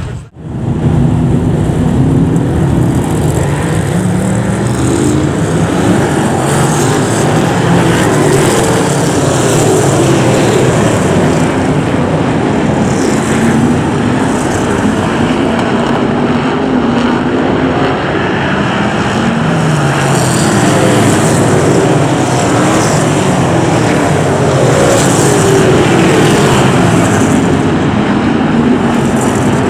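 Brisca F1 stock cars' V8 engines racing as a pack, their pitch repeatedly rising and falling as they accelerate and lift through the laps.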